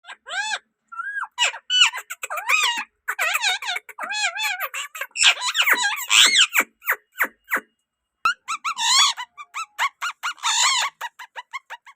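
Green ringneck (rose-ringed) parakeet calling in rapid runs of shrill, squeaky chirps and chatter, each call a quick rise and fall in pitch, with short pauses between bursts.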